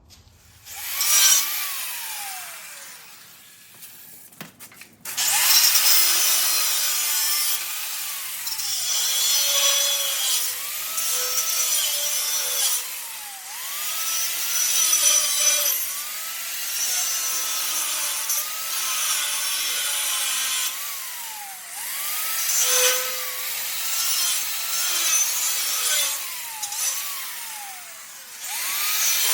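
Angle grinder working the steel frame. About a second in it runs up briefly and winds down. From about five seconds it runs continuously with a loud hiss, its motor pitch sagging and recovering again and again as the disc is pressed into the metal and eased off.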